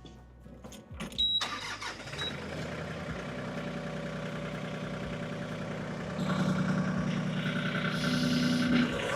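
LS MT226 compact tractor's diesel engine cranking and catching about a second in, then running steadily. It runs louder from about six seconds in, with engine speed raised ahead of a heavy loader lift.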